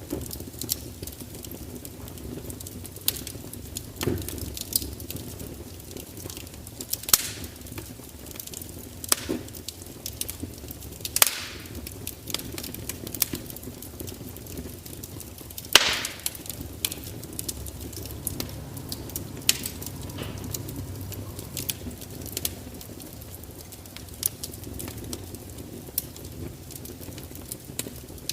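Fire crackling: irregular sharp pops and snaps over a low, steady rumble, the loudest pop about sixteen seconds in.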